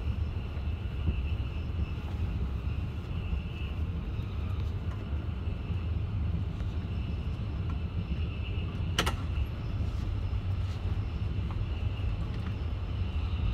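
Passenger train running steadily: a low rumble of wheels on rails with a faint high whine above it, and one sharp click about nine seconds in.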